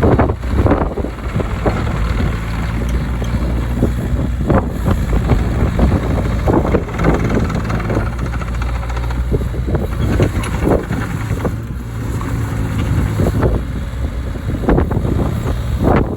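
Hitachi ZX33U-5A mini excavator's diesel engine running steadily, with repeated knocks and clanks from the machine as it works.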